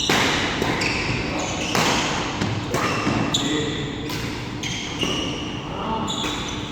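Badminton doubles rally: rackets hit the shuttlecock roughly one to two times a second, mixed with short squeaks of court shoes on the hall floor.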